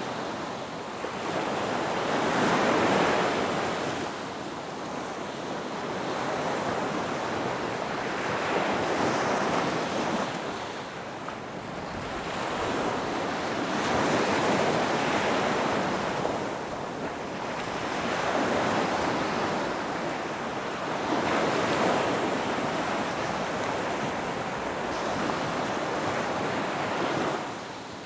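Ocean surf washing onto a beach: a continuous hiss of water that swells and fades as waves break and run up the shore, a new surge every few seconds, with some wind on the microphone.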